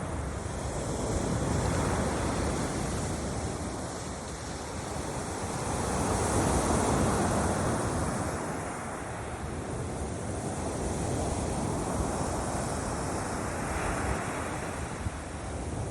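Waves of the Balearic Sea washing onto a beach. The surf swells and ebbs every few seconds, with wind rumbling on the microphone.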